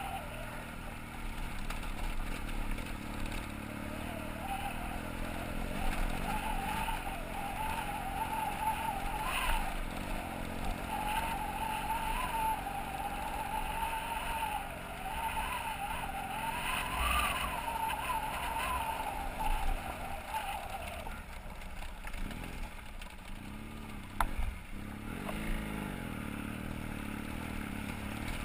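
BMW F800GS parallel-twin motorcycle engine running on a climb up a gravel mountain road, its note rising and falling with the throttle. There is a steady rumble throughout and a single sharp knock near the end.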